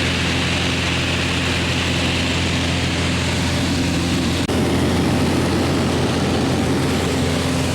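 Propeller airplane engine droning steadily, with a brief dip in level about halfway through.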